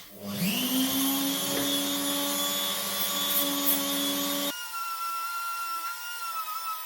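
Electric grinder switched on, its motor spinning up within half a second and running steadily at speed, then cut off abruptly about four and a half seconds in. Background music follows.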